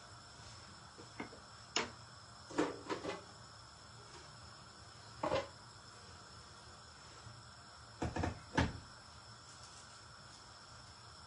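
A handful of short knocks and clatters of kitchen things being handled, some in quick pairs, over a steady faint hiss.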